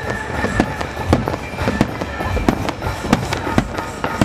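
Aerial fireworks shells bursting in quick succession, about a dozen booms at two to three a second, over a music soundtrack.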